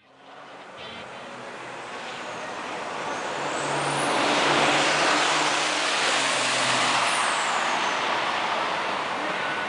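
Diesel racing trucks passing at speed on a circuit. The engine and tyre noise builds for about four seconds, peaks, then slowly fades as they go by.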